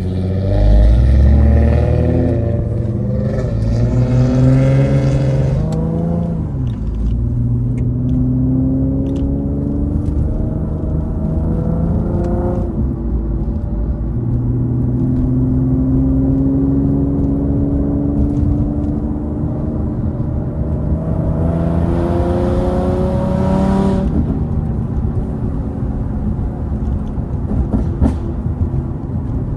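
Infiniti G37's 3.7-litre VQ V6 with a loud exhaust, heard from inside the car while driving. Its pitch climbs hard in the first few seconds, settles to a steady cruise, then climbs again about two thirds of the way through and drops off suddenly.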